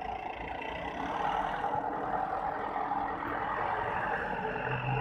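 Engine running through a homemade exhaust, a steady exhaust note that gets a little louder about a second in.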